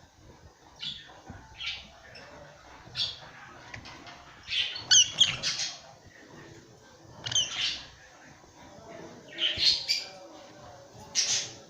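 Pet lovebirds giving short, harsh squawks with quick sliding tones, spaced through the stretch with a quick run of several calls near the middle.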